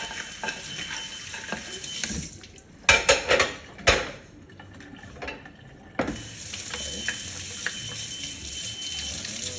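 Tap water running into a sink while bowls, spoons and dishes clink as they are handled and sorted. The water stops for a few seconds in the middle, when there is a run of loud clattering knocks of crockery, then starts again.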